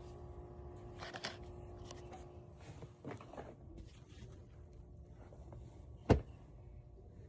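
Quiet room sound: a steady electrical hum that cuts off a little over two seconds in, a few soft knocks and rustles, and one sharp thump about six seconds in.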